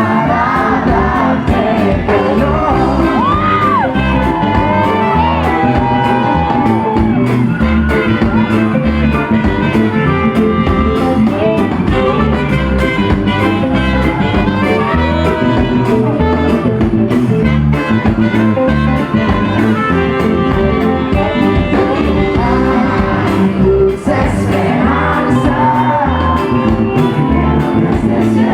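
Live reggae band playing: a sung lead vocal over a steady bass and drum rhythm.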